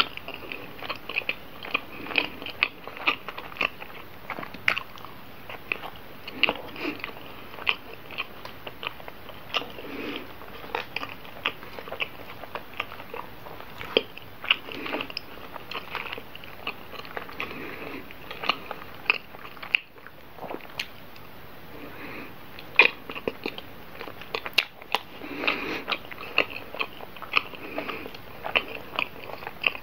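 Close-miked chewing of a soft bread roll filled with butter cream and chocolate sprinkles, with many short wet mouth clicks throughout.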